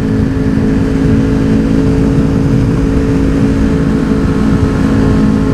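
Motorcycle engine running at a steady cruising speed, its pitch holding level, over a rushing low noise of wind while riding.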